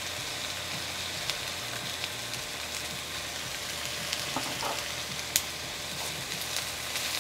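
Cauliflower florets sizzling steadily in hot oil in a nonstick frying pan, with light soy sauce just poured over them. Near the end a spatula stirs them, with a single sharp click a little after five seconds in.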